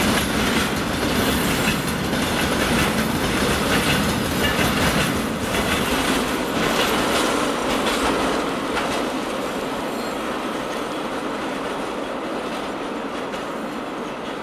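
Freight train of rail tank cars rolling past, wheels clacking over the rail joints. The last car goes by about eight seconds in, and the rumble then fades as the train moves away.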